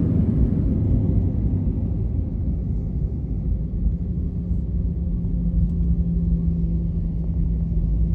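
Airbus A320 cabin noise after touchdown: a heavy low rumble that eases over the first few seconds as the aircraft slows on the runway, with a steady low hum coming in about halfway through.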